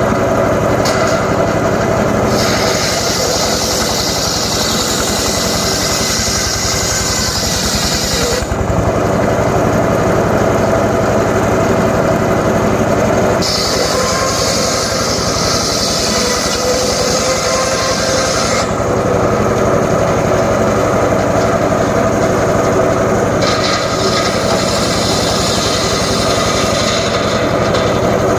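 Home-built, engine-driven circular saw running steadily while its blade cuts through johar wood three times, each cut about five seconds long and adding a high hissing whine over the machine's hum.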